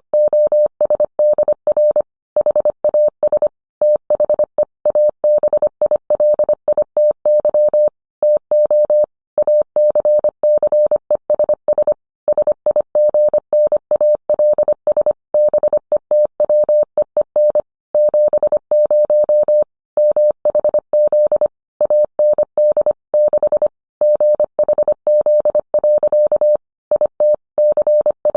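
Morse code: a single steady medium-pitched beep keyed on and off in quick dots and dashes, with short pauses between letters and words.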